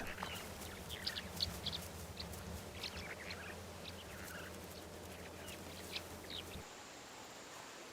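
Faint scattered bird chirps, short high calls, over a low steady rumble of outdoor ambience that drops away about six and a half seconds in.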